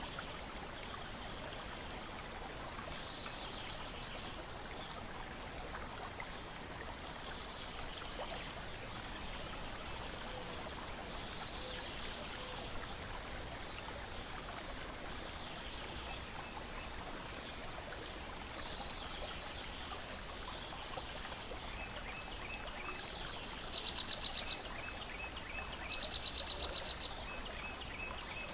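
Steady wash of lake water lapping at the shore, with birds chirping every second or two. Near the end two loud, fast-pulsed trills stand out, each lasting about a second, over a string of quick high ticks.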